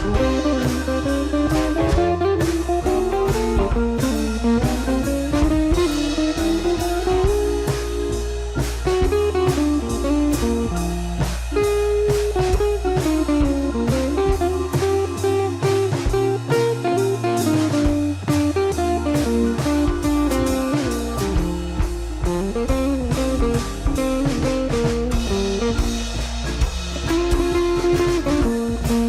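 Background music: a blues-style electric guitar melody over bass and drums.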